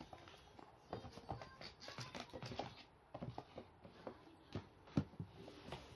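A kitten playing, its paws and the toy making irregular taps, scratches and knocks, with one louder knock about five seconds in.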